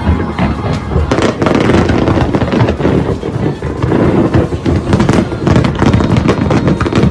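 Aerial fireworks going off in a dense, continuous barrage of overlapping bangs and crackles.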